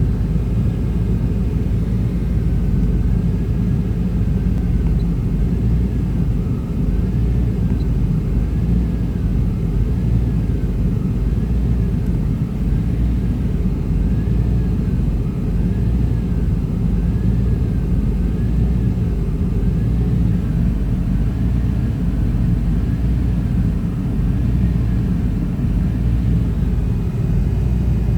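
1995 Chevrolet Tahoe's 5.7-litre V8 idling roughly, a steady low rumble with a faint high tone that rises and falls about every second and a half. The rough idle comes with a throttle position sensor the engine computer is not reading, and the owner suspects a problem with the EGR valve.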